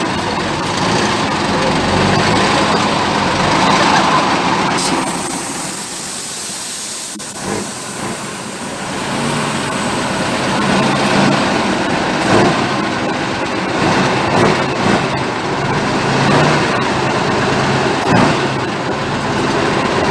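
Heavy truck's diesel engine running under load on an off-road trial course, its note rising and falling, with occasional clunks and knocks from the truck working over rough ground.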